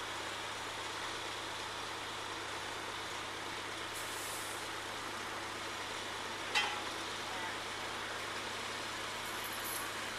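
Heavy truck running steadily, a wash of engine noise over a low hum, with a brief hiss about four seconds in and a sharp knock about six and a half seconds in.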